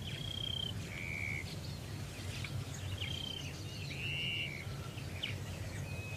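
A bird calling with clear whistled notes, alternating between a higher and a lower pitch about once a second, over a steady low background rumble.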